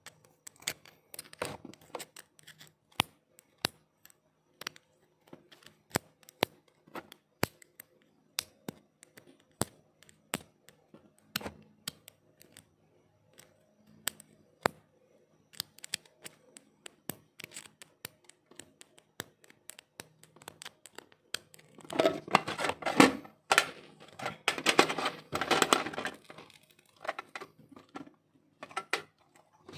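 Laptop being taken apart by hand for a battery swap: a long run of separate sharp clicks and taps, then a louder, denser stretch of noise lasting about four seconds near the end.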